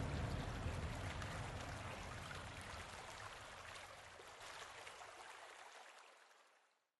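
Rushing, flowing water, fading out steadily until it stops just before the end.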